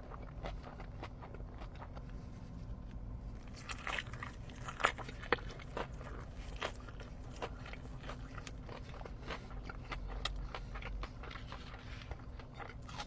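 Person biting into and chewing crispy fried chicken close to the microphone: a run of crackly crunches, busiest and loudest about four to six seconds in.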